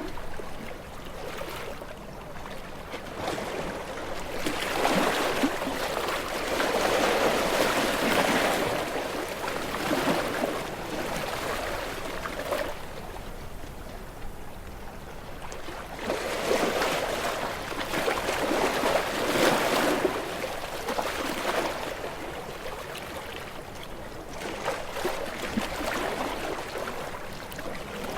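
Ocean waves washing in, a rushing noise that swells and fades every several seconds. The biggest surges come about five to nine seconds in and again around sixteen to twenty seconds.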